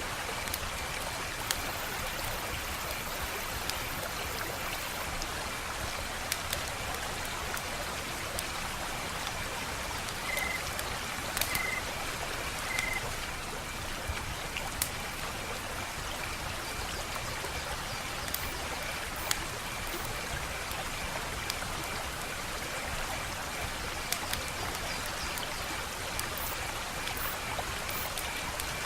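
Wood fire crackling: a steady hiss with irregular sharp pops every second or few seconds.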